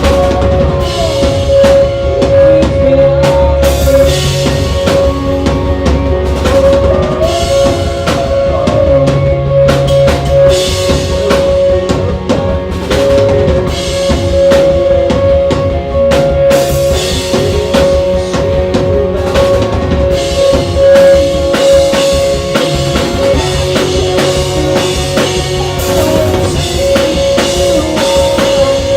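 Rock band playing live at full volume: a drum kit with kick and snare under distorted electric guitars, with a held guitar note ringing through most of the passage and no singing.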